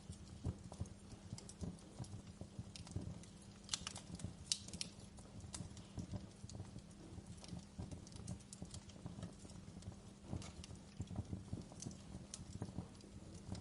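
Wood fire crackling in a fireplace: irregular pops and snaps over a low steady rumble.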